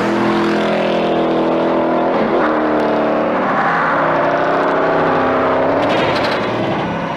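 Car engine running loud and revving, its pitch shifting up and down. It starts abruptly.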